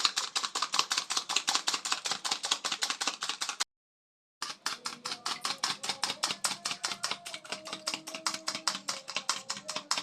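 A fork beating a batter of egg, sugar, margarine and milk in a bowl: quick, regular clicks of the fork against the bowl, about six a second. The sound cuts out completely for under a second about a third of the way in, then the beating goes on.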